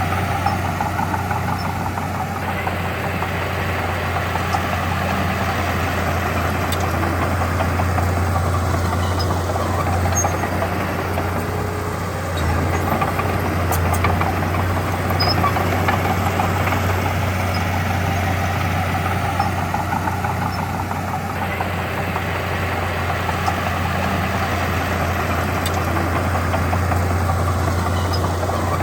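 Diesel engine of heavy earthmoving equipment running steadily, with a constant low drone.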